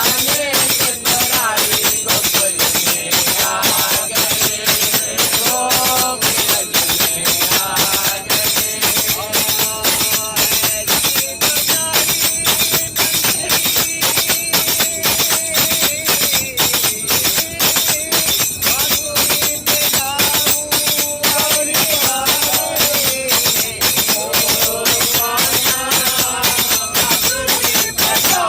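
Voices singing together over a fast, steady beat of jingling hand percussion, tambourine-like jingles struck on every beat.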